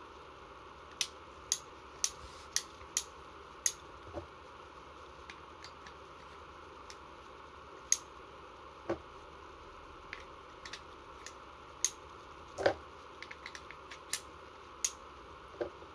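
Sharp, separate clicks and light taps of small hard parts being handled during work on a Marushin SAA .45 gas revolver. A run of about six clicks comes roughly half a second apart near the start, then scattered clicks and small clusters follow.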